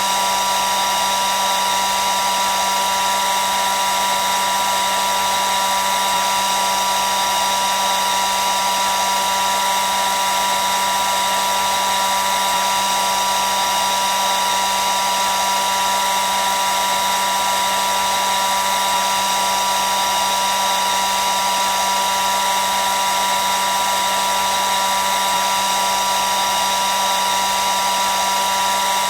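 Hair dryer running steadily: an even rushing of air over the motor's constant high whine, with no change in speed.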